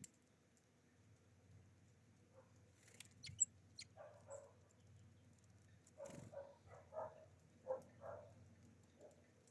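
Small birds at a feeder: a few short, very high chirps and clicks about three seconds in, then a series of soft, irregular pecking taps.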